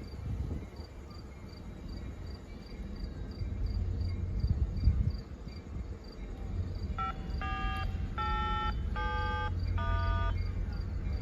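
Crickets chirping in a steady rhythm over a low rumble. In the last few seconds comes a quick run of five short pitched notes, each at a different pitch, like a little tune.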